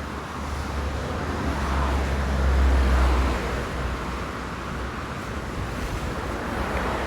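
Steady outdoor noise with a deep low rumble and a hiss, swelling about two to three seconds in and easing off.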